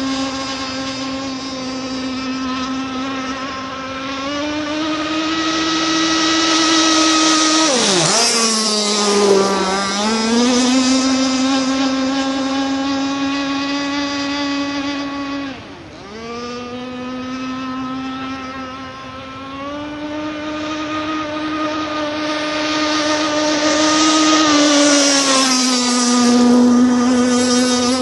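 R42 radio-controlled racing catamaran running flat out on high-speed straight-away passes, its motor a steady high-pitched tone. The pitch drops sharply as the boat passes about 8 seconds in and again around 16 seconds in, then settles back.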